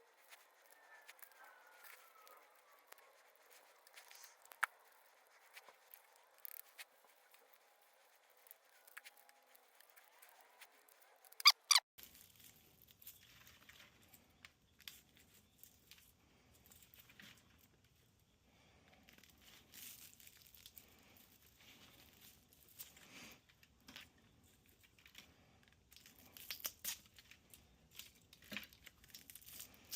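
Faint crinkling, tearing and scratching of copper winding wire being pulled out of a cut ceiling fan motor stator, with scattered small clicks and two sharp snaps about eleven and a half seconds in.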